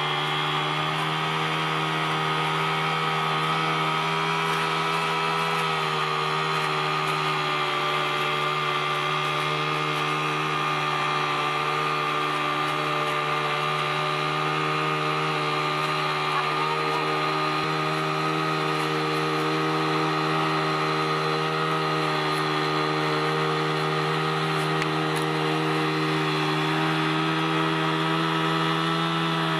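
Machine engine running steadily at a constant pitch, with a slight drop in pitch about six seconds in.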